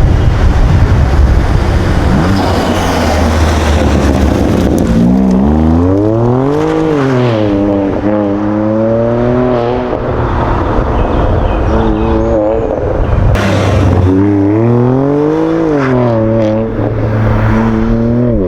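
BMW M4's S55 twin-turbo inline-six running through a Hurricane 3.5-inch valved straight-pipe exhaust fitted behind the particulate filter. The sound is loud, with the engine's pitch rising and falling twice, about five and about fourteen seconds in, between stretches of steadier running.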